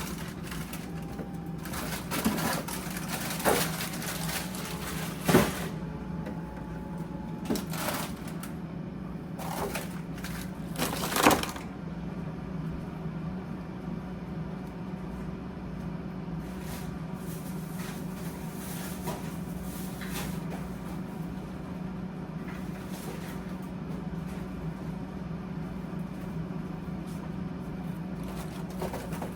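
Groceries being handled and put away: a run of crackles and knocks of packaging and items being moved, loudest about five and eleven seconds in, over a steady low hum. After that it settles to the hum with only faint small clicks.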